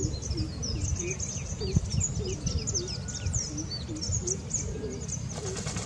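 Chorus of many small birds chirping quickly and continuously, with a low, repeated short call underneath and a steady low rumble.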